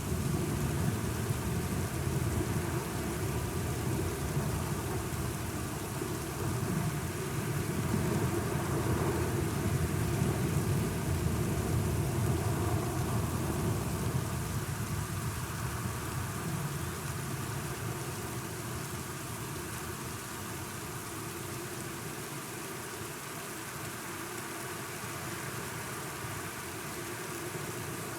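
Steady rain under a long, low rumble of thunder that builds to its loudest about ten seconds in, then slowly dies away.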